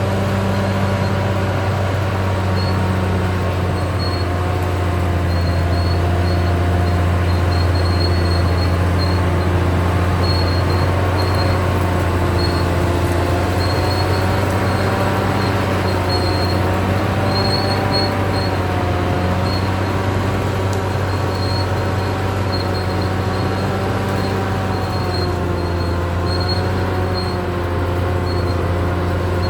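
Caterpillar D6R XL bulldozer's diesel engine running steadily, its pitch drifting slightly up and down as it works.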